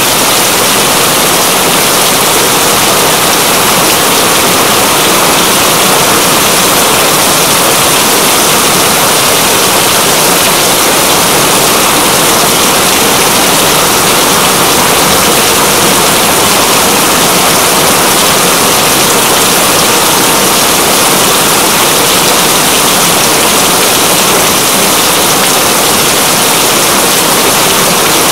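Steady rain, a dense even hiss with no breaks.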